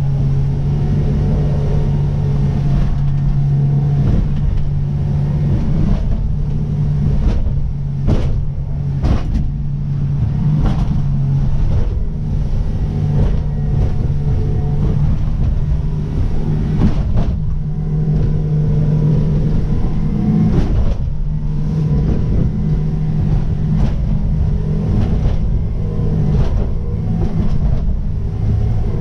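Jeanneau Merry Fisher motorboat's engine running steadily under way in rough water, with sharp knocks every few seconds.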